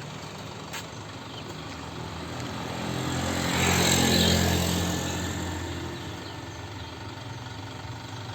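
A road vehicle drives past: its engine and tyre noise swell to a peak about four seconds in and then fade, over a steady low engine hum.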